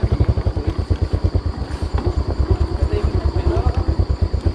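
Motorcycle engine running at low revs, with a rapid, even low pulsing.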